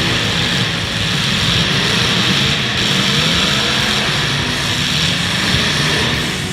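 Several demolition derby cars' engines running and revving together in a dense drone, their pitch rising and falling.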